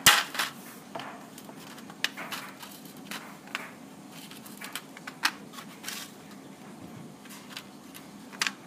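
Sharp scissors cutting small pieces of an old DVD: a string of irregular sharp snips and cracks of the brittle plastic, the loudest right at the start and another cluster near the end.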